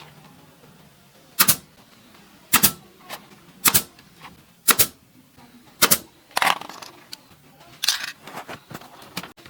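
Sharp knocks of a tool striking wood, five evenly spaced about a second apart, then a run of looser, quicker knocks near the end.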